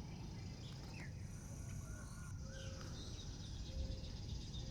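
Faint outdoor ambience: scattered short bird chirps and whistles over a steady high insect trill, with low wind rumble.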